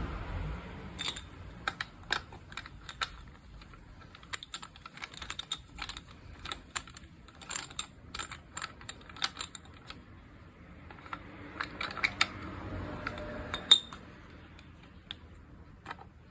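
Irregular light clicks and taps of hand tools and small metal parts being handled, some in quick clusters.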